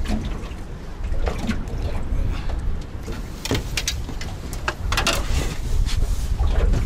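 Strong wind rumbling on the microphone in a small boat on choppy water, with waves splashing against the hull. Scattered clicks and knocks, the loudest a little over three seconds in and again around five seconds.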